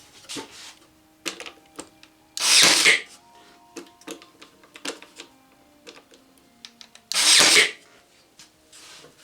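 Brad nail gun firing twice, about four and a half seconds apart, each shot a loud burst of about half a second, driving brads through wooden planks into a frame; light clicks and knocks of handling the wood and tool between the shots.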